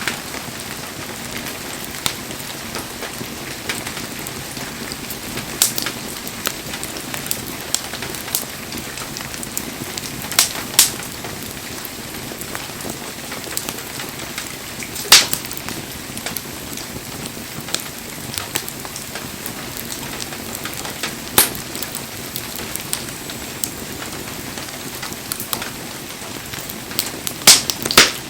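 Wood fire burning, with a steady hiss and scattered sharp crackles and pops. The loudest pop comes about fifteen seconds in, and a quick cluster of pops comes near the end.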